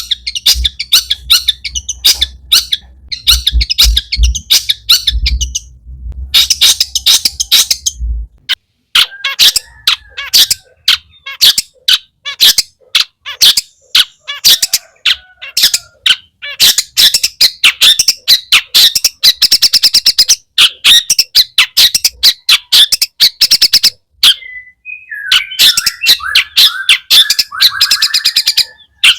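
Long-tailed shrike (cendet) singing a fast, harsh chattering song of rapid sharp notes, with a brief pause about four-fifths of the way through.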